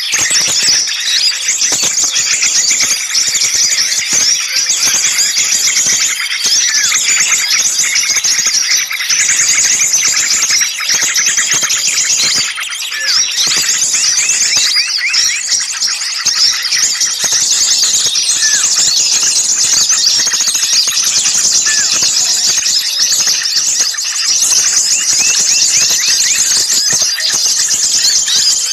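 Dense, noisy chorus of many small songbirds chirping and chattering at once, high-pitched calls overlapping without a break. It is a bird-lure recording of agitated small birds meant to draw other small birds in.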